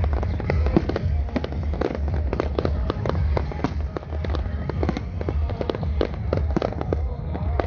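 Fireworks going off in rapid, overlapping bangs and crackles, many per second, over a continuous low rumble.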